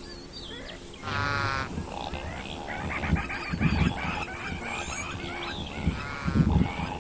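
Gazelle calls: short pitched calls about a second in and again near the end, with birds chirping between them.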